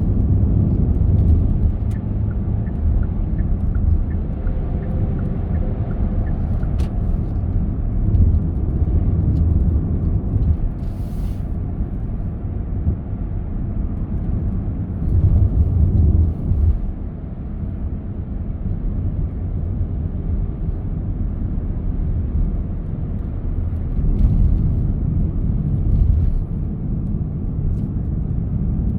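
A car driving along a road: a steady low rumble of tyres and engine that swells louder for a moment about halfway through. Faint regular ticking runs for a few seconds near the start, and there is a brief hiss a little before the middle.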